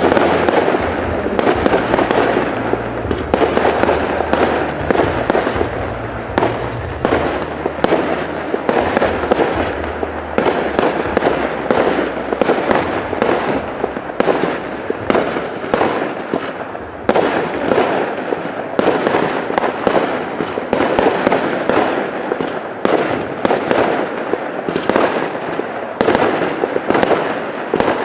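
Professional fireworks display: aerial shells bursting in quick succession, several bangs a second with no pause.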